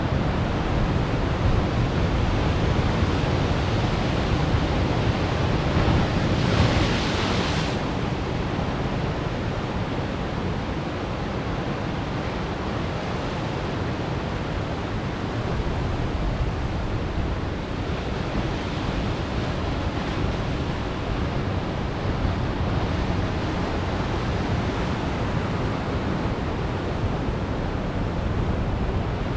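Ocean surf breaking on coastal rocks: a continuous rush of waves, with one louder crash about six seconds in.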